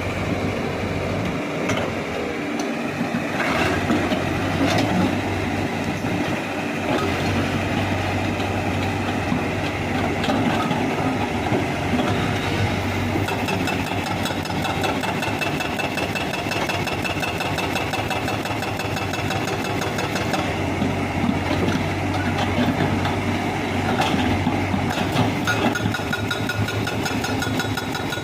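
EX71 hydraulic excavator's diesel engine running steadily under working load while digging, with a few brief knocks.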